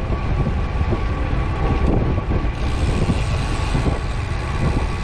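Riding noise from a moving bicycle: wind buffeting the microphone and tyre rumble on the road, loud and steady.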